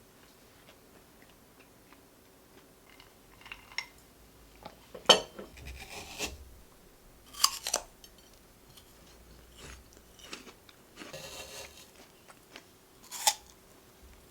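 Small objects being handled: scattered clicks and knocks with a stretch of crinkling, over a faint steady hum.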